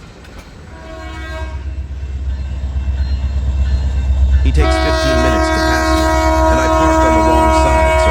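Approaching diesel locomotive with its engine rumble building steadily. Its air horn gives a short, faint toot about a second in, then a long loud blast from a little past halfway, holding to the end.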